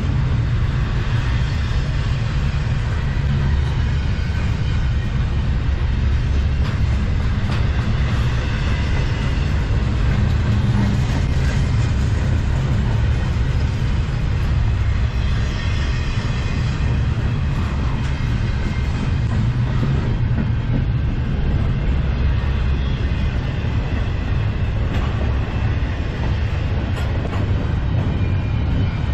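Double-stack container well cars of a long freight train rolling past, a steady low rumble with wheel and rail noise.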